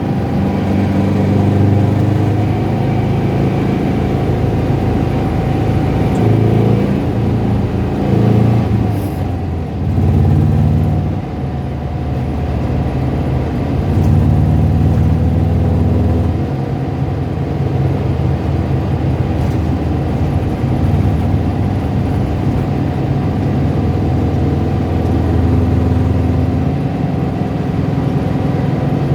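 Car engine running, its revs stepping up and down several times. At lower revs it makes a rattling, tapping noise.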